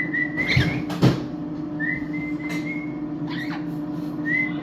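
Three short whistles on one flat pitch, each under a second long, with a sharp knock about a second in and a steady low hum underneath.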